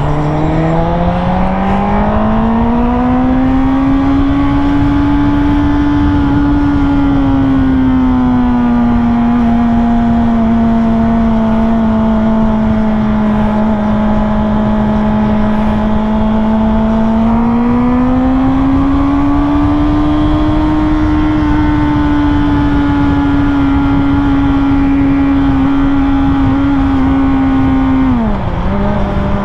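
Sportbike engine under way with heavy wind rush. It pulls up in pitch over the first few seconds and holds at a steady cruise. It climbs again about two-thirds of the way through, then drops sharply near the end, as with a shift or a roll-off of the throttle.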